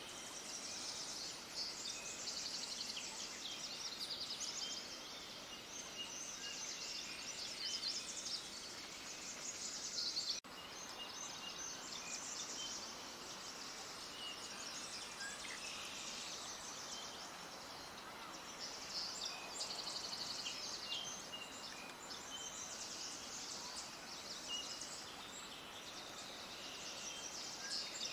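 A dense chorus of small birds chirping and twittering at once, many quick high-pitched calls overlapping over a faint hiss, with a sudden momentary dropout about ten seconds in.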